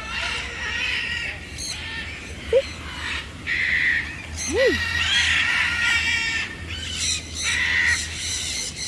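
Many aviary birds calling together: a dense, overlapping chatter of squawks and chirps, with a few short sweeping calls standing out, over a low steady hum.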